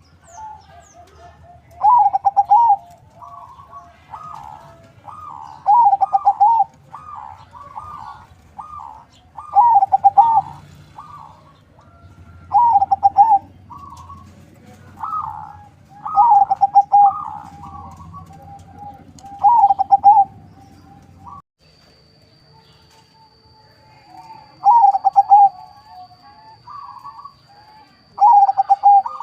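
Zebra dove (perkutut), a local × Bangkok crossbred, cooing: loud trilled coo phrases repeated every three to four seconds, with softer coos between them.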